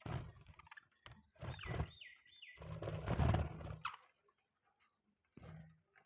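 Pet budgies chattering in irregular bursts, with a quick run of about four short falling chirps around two seconds in.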